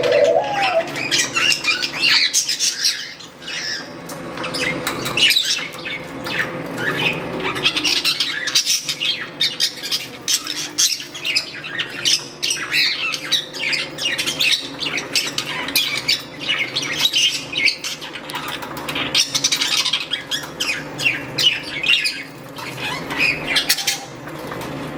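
Pet budgerigars chirping and squawking steadily while bathing, with many short splashes and wing flutters in the water.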